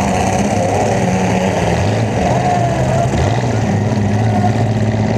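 Demolition derby car's engine running loud and steady through its open exhaust stack, heard up close, its pitch shifting slightly now and then.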